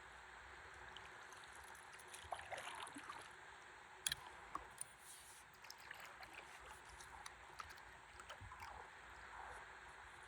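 Faint water sloshing and trickling against a stand-up paddleboard on a river, with a few small splashes and a sharp knock about four seconds in.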